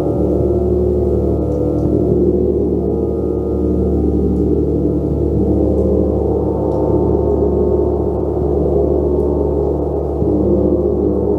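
Gong played continuously in a sound bath: a dense, steady wash of many overlapping low tones, with the low end shifting a little about ten seconds in.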